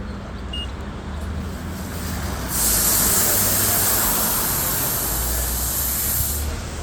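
Rollover car wash hissing as it sprays, starting suddenly about two and a half seconds in and cutting off about four seconds later, over a steady low machine hum.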